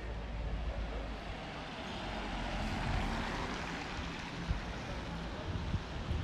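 A vehicle passing on a wet street, its tyres hissing on the rain-soaked road, swelling to its loudest about three seconds in and then fading, over a steady low rumble of city traffic.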